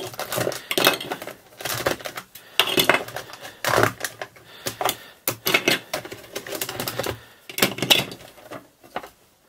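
Large plastic toy building bricks being pulled apart and set down on a wooden workbench as a brick mould box is dismantled: irregular clicking and clacking, which cuts off suddenly near the end.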